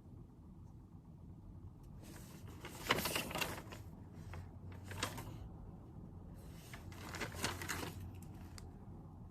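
Desk handling noises from studying, paper and stationery rustling and scraping in three short spells: about two seconds in, around five seconds, and again near seven to eight seconds. A steady low room hum runs underneath.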